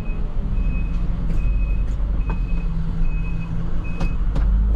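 Truck backup alarm beeping at an even pace, a little more than one beep a second, over the steady running of a truck engine.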